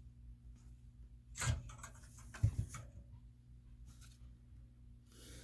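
Light handling noises of small model parts and wires on a workbench: a few short knocks and scrapes, the sharpest about two and a half seconds in, over a steady low hum.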